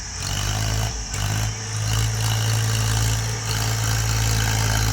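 Heavy vehicle engine running steadily under power, growing louder just after the start and then holding a constant pitch.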